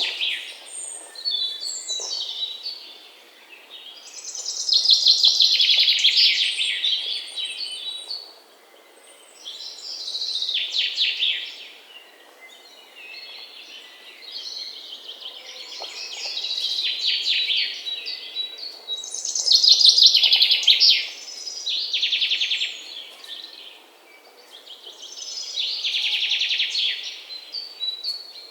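Songbirds singing outdoors: fast, trilled high phrases a second or few long, repeating every few seconds over a faint background hush.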